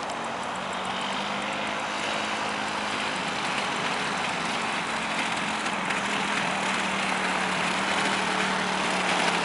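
Quad bike engine running steadily, its level slowly rising.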